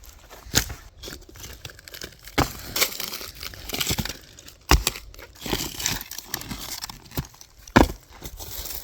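Dry sticks and twigs snapping amid crunching brush and leaves as kindling is gathered and broken up, with about five sharp cracks spread through the stretch.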